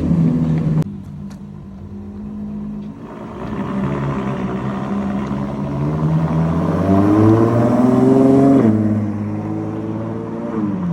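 Ferrari F12berlinetta's 6.3-litre V12 through a Novitec exhaust: the throttle shuts about a second in with a few sharp cracks, then the engine pulls hard with a steadily rising pitch for several seconds before dropping off sharply and settling lower.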